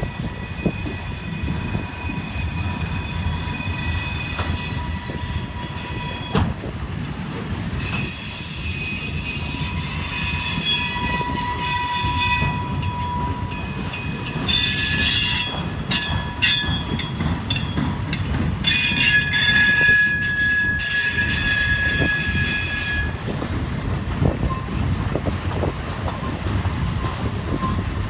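Railroad flatcars rolling past on steel wheels with a steady low rumble. High, thin wheel squeal comes and goes over it, loudest in stretches in the second half, one held for several seconds.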